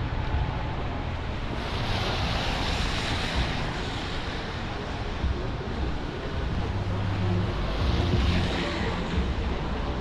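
Wet city street in the rain: a steady hiss of rain and traffic with a low rumble, swelling twice as vehicles pass with their tyres hissing on the wet pavement.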